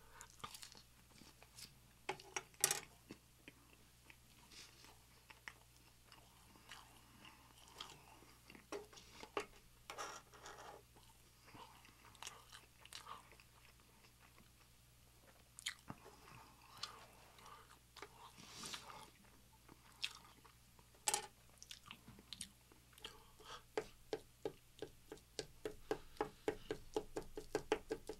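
A person chewing and biting food close to the microphone, with scattered crisp crunches and wet mouth clicks. Over the last few seconds a fast run of small clicks builds up.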